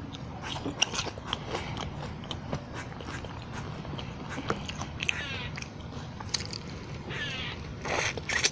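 A person chewing and biting food close to the microphone, with many small wet mouth clicks.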